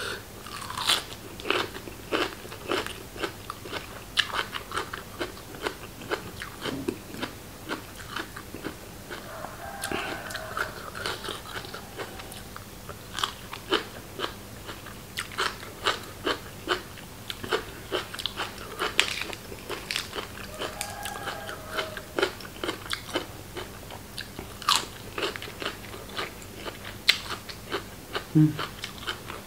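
Close-miked eating: a person biting and chewing crunchy food, with irregular crisp crunches several times a second.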